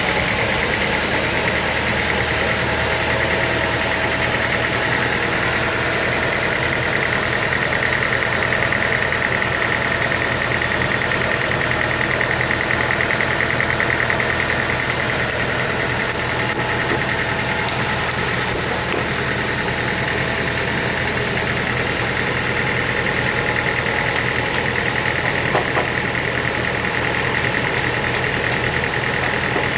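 Sawmill machinery running steadily: a motor hum under a constant high whine.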